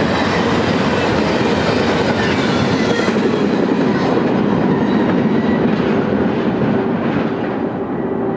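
Double-stack container train's well cars rolling past: a steady rumble and clatter of steel wheels on the rails, with a faint steady whine over it. Near the end the sound dulls and drops a little as the last cars pull away.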